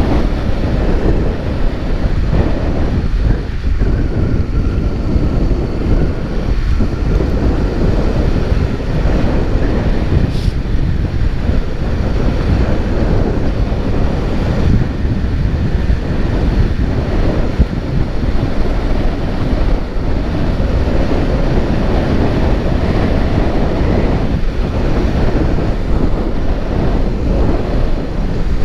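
Steady heavy wind rumble on a moving GoPro's microphone, with a vehicle's running noise underneath.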